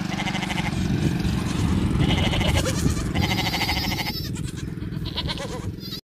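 Sheep bleating: several quavering bleats in a row over a steady low rumble.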